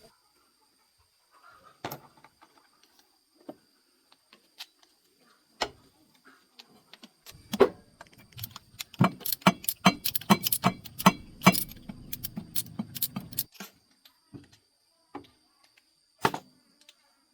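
Metal tools and parts clinking and rattling, with scattered single clinks and a busy stretch of rattling in the middle.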